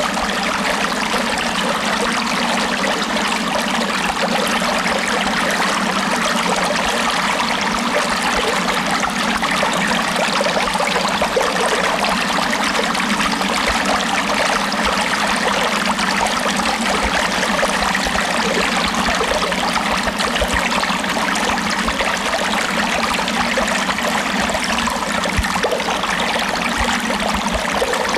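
Steady flowing water of a stream, a continuous even rush with a trickling, bubbling texture that does not change.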